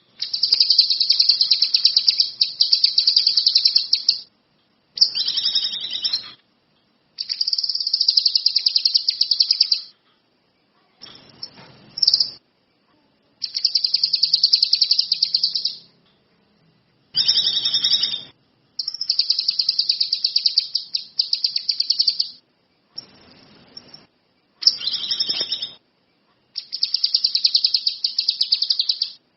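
A kinoi songbird singing in a series of fast, high-pitched trilling phrases, each lasting about one to four seconds, with short pauses between them.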